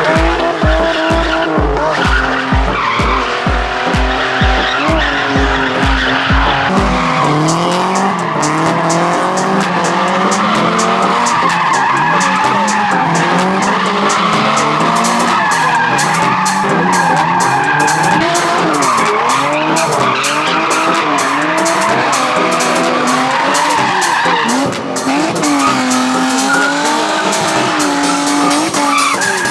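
Drift cars at a street sideshow: engines revving up and down repeatedly, with tire squeal from the sliding cars. A music track with a steady beat plays along.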